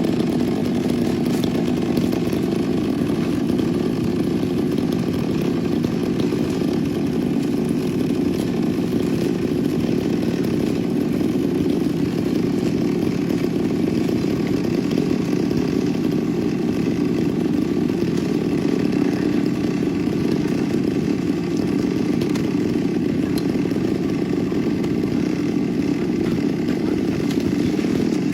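Chainsaw engine running steadily at an even pitch, with no break.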